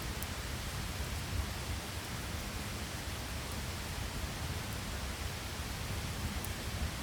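Layered rain ambience: a steady hiss of rain over a low rumble, with a couple of faint ticks, one near the start and one near the end.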